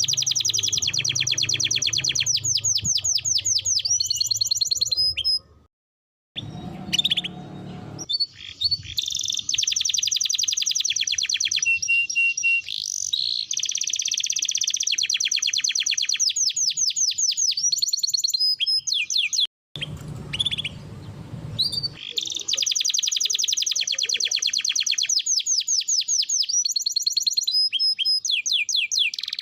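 Domestic canary singing long rolling trills: fast runs of rapidly repeated high notes, broken twice by short cuts to silence.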